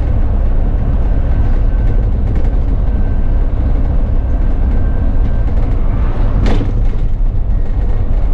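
Bus engine and road noise, a steady low rumble heard from inside the cab while the bus is driven. A brief hiss about three-quarters of the way through.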